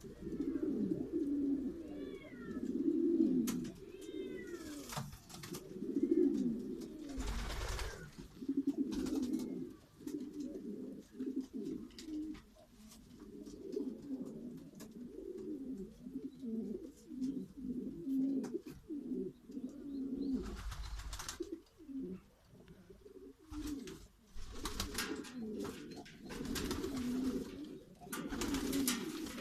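A group of pigeons cooing continuously, many low rolling coos overlapping one another. A few higher chirps come about two to four seconds in, and several brief rushes of noise break in now and then.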